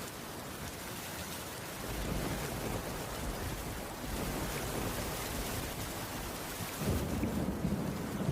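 Heavy rain falling steadily on a cabin's wooden roof, with a deep low rumble that swells about two seconds in and again near the end.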